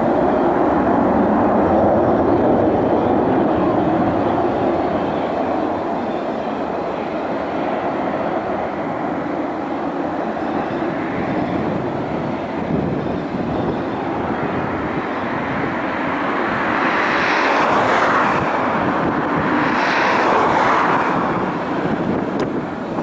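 Jet noise from a Tu-134UB-L's two Soloviev D-30 turbofan engines: a steady roar, with two brief louder, brighter swells about three-quarters of the way through.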